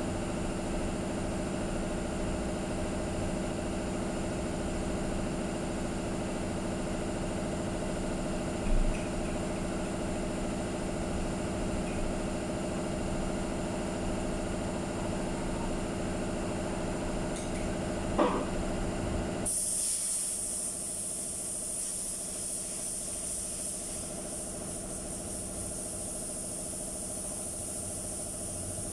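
A steady machine hum with a few brief knocks, then about two-thirds of the way through, a loud steady hiss of compressed air from a paint spray gun starts and runs on.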